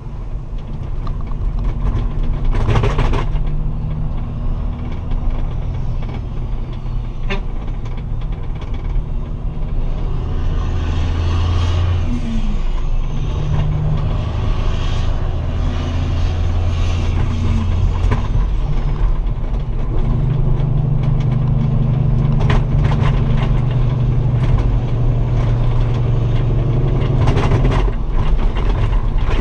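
Straight-piped Kenworth semi-truck's diesel engine running loud through open exhaust stacks, its low note stepping up and down in pitch several times. Two short bursts of hissing noise stand out, one about three seconds in and one near the end.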